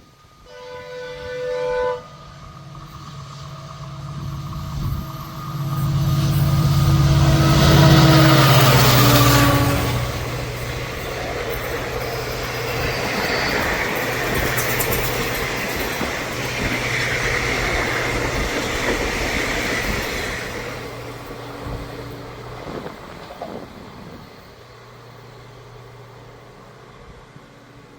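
Passing train: a horn blast that cuts off about two seconds in, then the locomotive's engine swelling as it goes by, followed by a long run of rolling wheel-and-rail clatter that fades away near the end.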